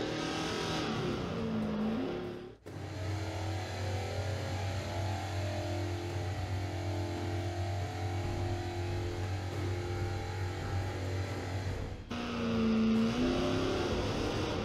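Race-car engine sound effect dubbed over a Hot Wheels die-cast car's lap: revving with rising and falling pitch, cutting to a steadier engine drone about 3 seconds in, then revving again near the end.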